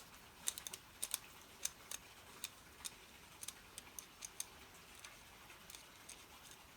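Light, irregular clicks and taps of a small metal tool on a carburettor, working a stuck emulsion tube and main jet loose, a few each second.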